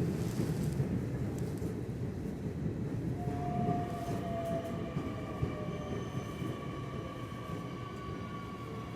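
Nishitetsu electric commuter train slowing into a station. The rumble of the wheels on the track slowly fades, and from about three seconds in an electric whine comes in that sinks slowly in pitch as the train brakes.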